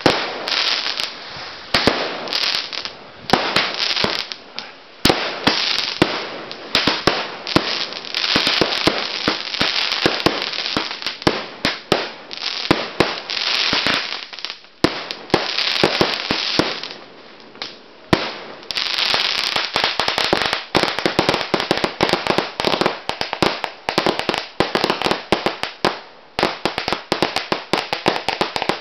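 Firework cakes firing: a fast string of bangs and crackling. The reports come closer together from about two-thirds of the way in.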